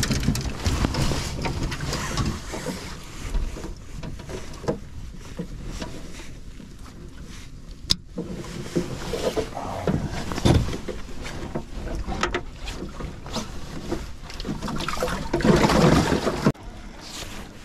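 Noise aboard an aluminum fishing boat: water sloshing and wind on the microphone, with scattered knocks and a sharp click about eight seconds in.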